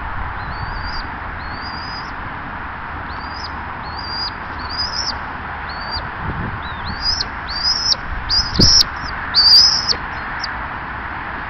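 A bird calling over and over in short, high whistles, each rising and then levelling off, louder and more frequent about two thirds of the way in, over a steady hiss. A single low thump comes in among the loudest calls.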